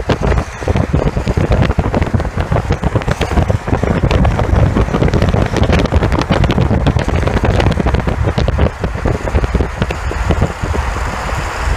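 Strong gusting wind buffeting the microphone, a loud rumbling roar that surges and drops with the gusts.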